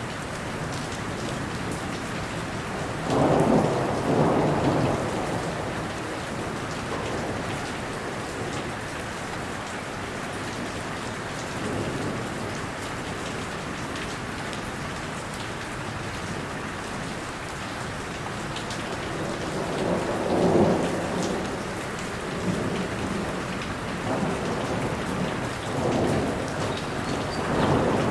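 Steady rain falling, with rolls of thunder rumbling about three seconds in, around twenty seconds in, and again near the end.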